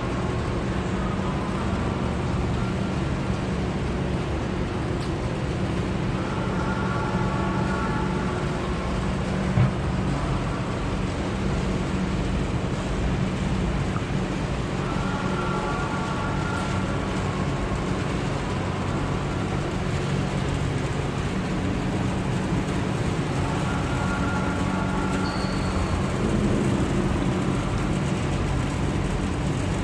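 A car engine idling steadily, with a brief knock about ten seconds in.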